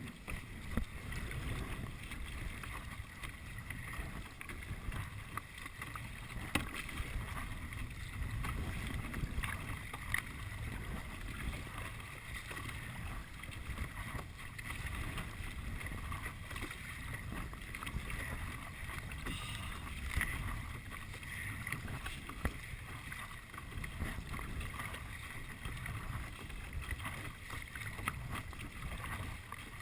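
Kayak paddles dipping and splashing in calm water, with irregular small knocks, over a gusty wind rumble on the microphone.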